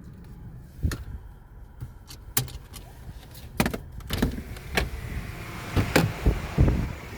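Car wash tunnel equipment running: a string of irregular knocks and thuds over a low rumble, with a hiss that builds from about halfway through.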